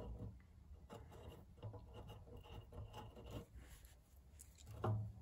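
Faint scraping and scattered light metal clicks of an 8mm socket turning down the small nuts that hold a fuel gauge sender unit into a motorcycle fuel tank, with one louder knock near the end.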